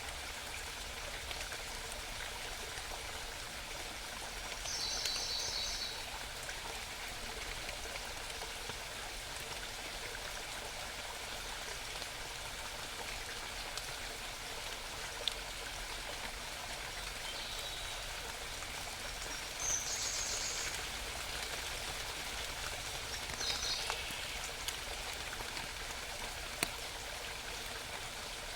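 Mountain stream babbling steadily, with a few short, high bird songs about five seconds in, around twenty seconds and around twenty-four seconds, and a couple of sharp ticks.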